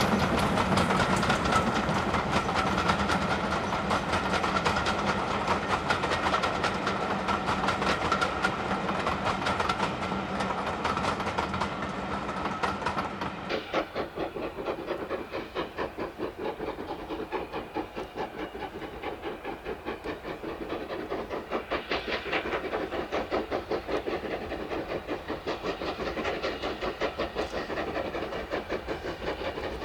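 Two steam locomotives double-heading a train, with fast exhaust beats over hissing steam and a steady tone above them. About 13 seconds in the sound changes abruptly to a slower, even beat of exhaust from a double-headed steam train working past.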